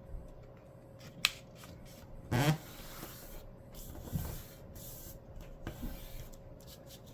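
Sheet of paper being folded in half and the crease pressed down by hand: paper rubbing and rustling, with a sharp click about a second in and a couple of brief louder swishes.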